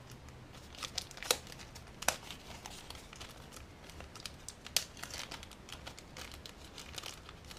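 Packaging of small 3D-printed model figures being handled and opened by hand: crinkling and rustling, with scattered sharp clicks.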